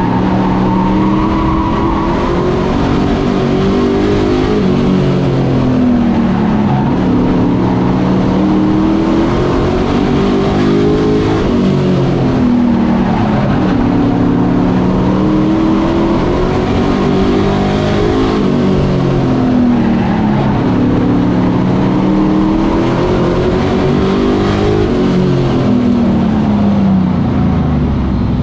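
Super Pro race truck engines running laps on a short oval, loud and continuous. The pitch climbs on the throttle and drops off roughly every ten seconds as the trucks go through each lap.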